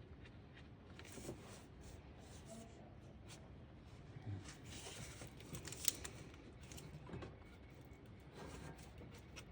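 Faint, irregular clicks, scrapes and rustling of hand work in an engine bay as parts and tools are handled, with one sharp click about six seconds in.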